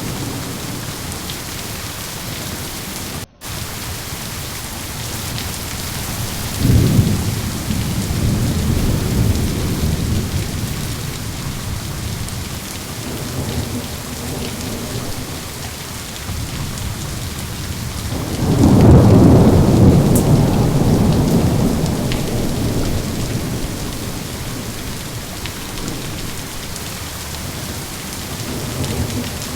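Steady heavy rain with thunder: a sharp rumble about seven seconds in and a bigger, longer rumble starting near the middle that slowly fades. A split-second dropout in the audio about three seconds in.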